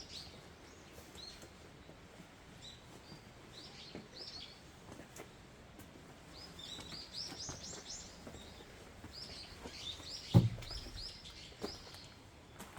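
Small birds chirping in many short, high calls, most busily in the second half. About ten seconds in there is one dull thump.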